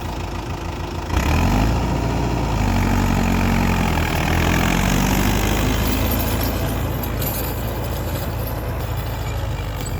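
Mahindra 475 DI SP Plus tractor's four-cylinder diesel engine running. About a second in it gets louder as it revs up, its pitch shifting for a few seconds before it settles to a steady run.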